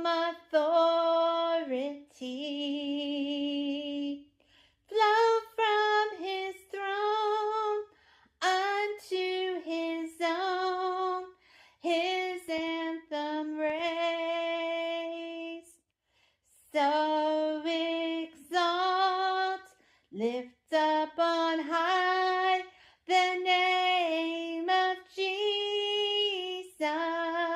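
A woman singing a hymn unaccompanied, in long held phrases with short pauses for breath between them.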